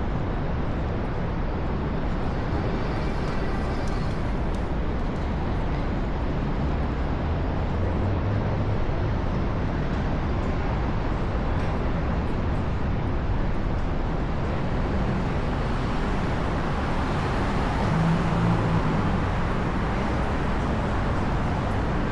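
Steady downtown street traffic noise, a constant rumble of passing vehicles that swells a little near the end.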